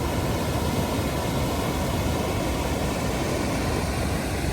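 Waterfall pouring into a river pool: a steady, even rush of falling water.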